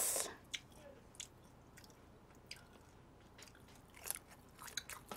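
Close mouth sounds of biting into and chewing a shrimp: a short rush of noise at the start, then scattered soft crunches and wet clicks, bunching together near the end.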